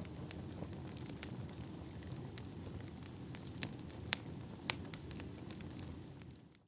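Firewood burning: a steady low rush of flames with scattered sharp crackles and pops, fading out near the end.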